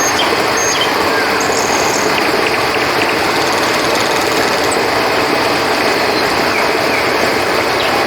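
River water flowing steadily, with a few short high cricket chirps scattered over it.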